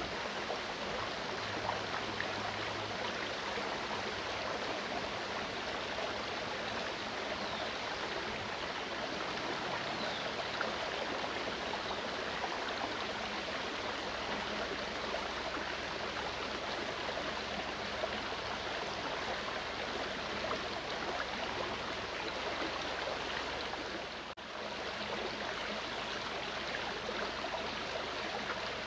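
Mountain stream flowing steadily, a continuous rushing and babbling of water, with a momentary dip in level about three-quarters of the way through.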